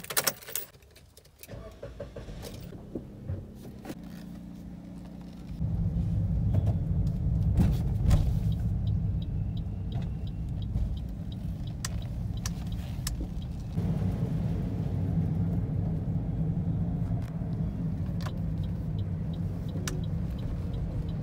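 Keys clicking in the ignition of a Suzuki Cultus and its small three-cylinder engine starting and idling, heard from inside the cabin. About five seconds in the car pulls away and the engine and road noise become much louder, rising again partway through as it speeds up.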